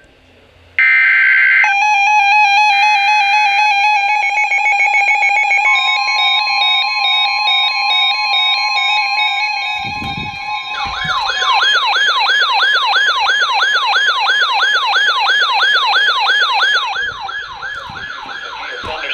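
Emergency Alert System audio: a short screeching digital data burst, then electronic alert tones, steady at first with a tone near 1 kHz, then a siren-like tone from about 11 seconds in that warbles up and down about three times a second and drops in level near the end.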